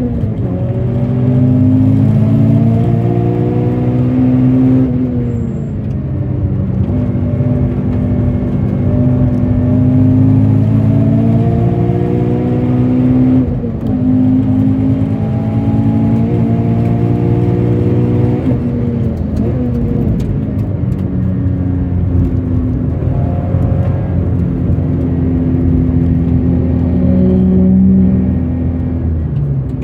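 Toyota 86's flat-four engine pulling under acceleration, its pitch climbing and falling back abruptly at each gear change about three times, then running at steadier revs.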